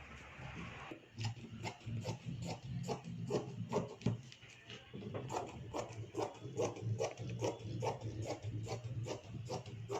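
Fabric scissors snipping through cloth in a quick, even run of short clicks, about three a second, as a bias strip is cut. A low steady hum underneath.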